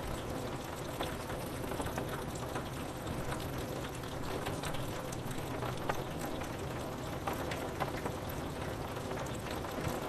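Steady rain with many individual drops tapping on window glass.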